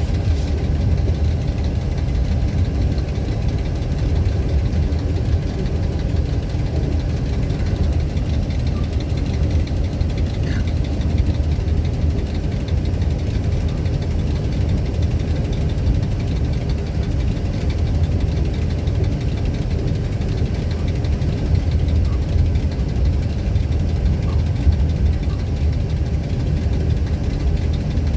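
Diesel engine of an EMD G16 (series 661) locomotive, a two-stroke 16-cylinder EMD 567, running steadily at low speed with a deep, even throb.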